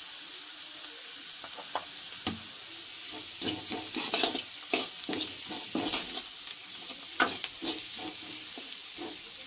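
Onions and spices sizzling in hot oil in a metal kadai, with a metal ladle scraping and clinking against the pan as it is stirred. The scraping strokes become frequent from about three seconds in.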